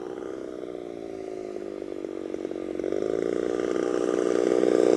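Gas engine of a large RC model racer plane running at low throttle on landing approach, growing steadily louder as the plane comes closer. Its pitch dips slightly early on and rises a little about three seconds in.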